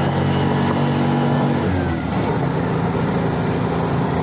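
Motor vehicle engine running steadily on the road, heard from on board. Its note drops and changes about two seconds in, as on a gear change or easing off the throttle.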